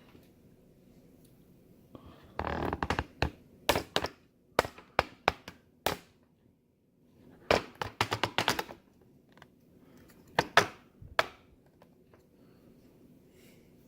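Small parts and tools handled on a workbench during assembly of a small robot: a scrape, then irregular clicks, taps and knocks that come in two clusters a few seconds apart, with a few more sharp clicks later.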